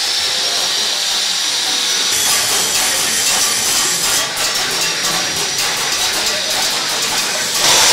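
Handheld power tool grinding into a small metal figurine: a steady, high hissing grind, which changes abruptly just before the end.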